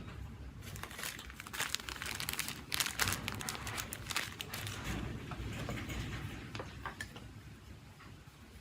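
Close handling noises from bench work on a smartphone: a dense run of small clicks, scrapes and crinkles, busiest in the first half and thinning out near the end.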